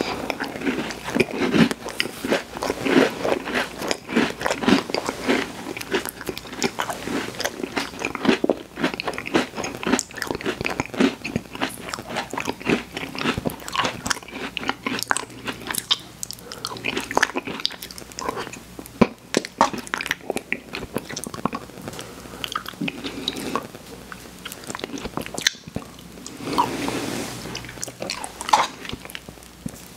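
A person eating fast food: steady, irregular biting and chewing with crunches, on a McDonald's cheeseburger and a soft-serve ice cream cone.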